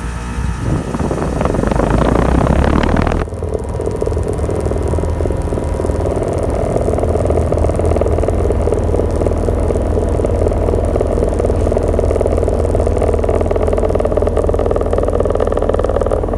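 Payne outdoor air-conditioner condensing unit running: a steady hum with a low drone under it. In the first three seconds a louder rushing noise builds and then cuts off suddenly.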